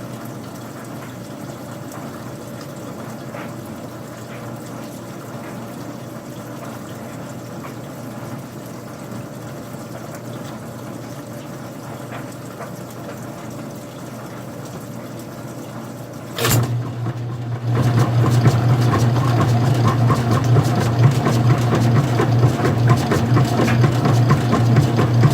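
Old-style front-loading washing machine filling with water, a steady rushing noise. About sixteen seconds in there is a sharp click, and its drive motor starts with a loud, steady low hum and rattling as the belt turns the drum in the agitate direction.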